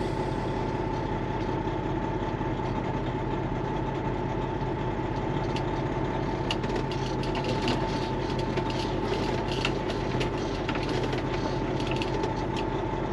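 Semi truck's diesel engine running steadily at idle during slow, tight maneuvering, with a steady high hum over it and scattered light ticks in the second half.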